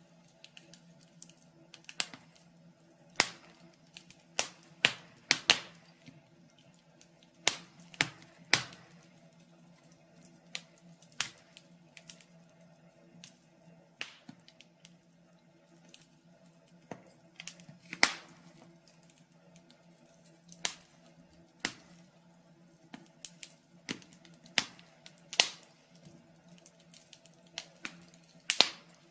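Wood fire crackling in a fireplace: sharp pops and snaps at irregular intervals, some much louder than others, over a faint steady hum.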